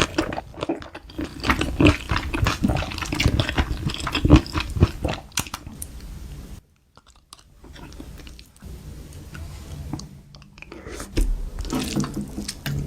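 Close-miked chewing and biting of crunchy food, mukbang-style, with dense crisp crunches for the first half. After a brief dead gap about halfway, the chewing goes on softer, with a few louder bites near the end.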